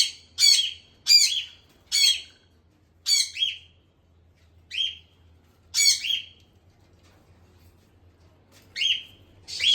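Caged pet birds giving sharp squawking calls, about one a second. The calls pause for roughly two seconds, then start again near the end.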